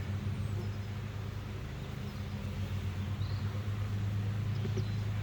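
Honeybees buzzing around an opened hive: a steady, low, droning hum. Faint bird chirps come over the top.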